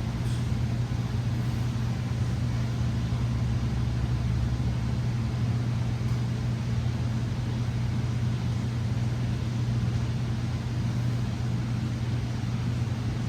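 Ventilation system running with a steady low hum and an even rushing noise.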